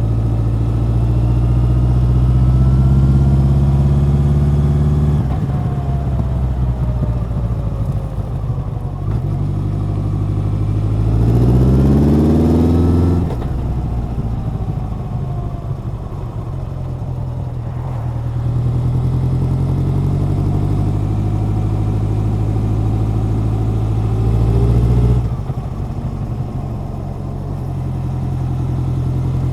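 Honda CB1100's air-cooled inline-four exhaust under way: the engine pulls steadily, eases off, then revs rise steeply for about two seconds before dropping back at a gear change, and the engine pulls on again.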